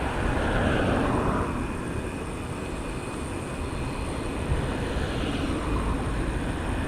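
Wind rushing over the microphone of a moving bicycle, with a steady low rumble and a swell of noise about a second in.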